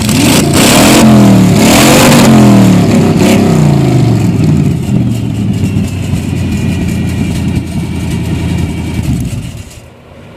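A Chevy 283 small-block V8 in a demolition-derby truck, revved up and down several times, then running steadily; the sound drops away sharply near the end.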